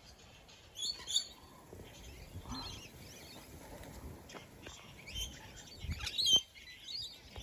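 Parrots chirping in short, scattered calls, faintly, with a few louder chirps about a second in and again near the end.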